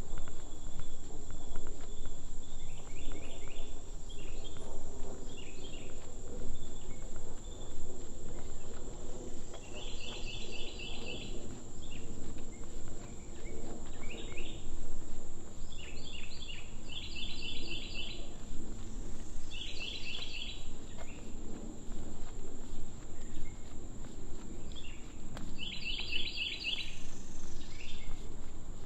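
Insects buzzing steadily at a high pitch, with short bursts of rapid chirps repeating every few seconds, over a low outdoor rumble.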